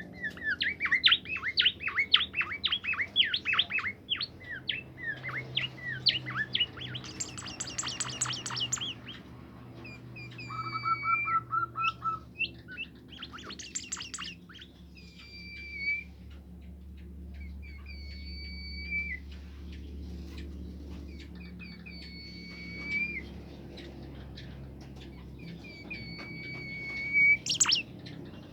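A songbird the keepers call a bimoli singing. It starts with a fast run of chirps and two quick trills, then settles into repeated clear whistled phrases, about one every two seconds, with a sharp loud chirp near the end. This kind of recording is played to get other bimoli birds singing.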